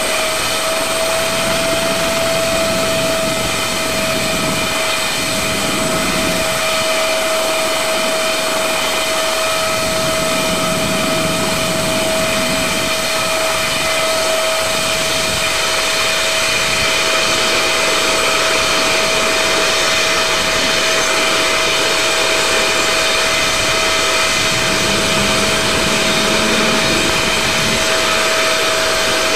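Aerospatiale AS365N1 Dauphin helicopter's turbine engines running with a steady whine over a rushing hiss, the whine rising slightly in pitch at the start.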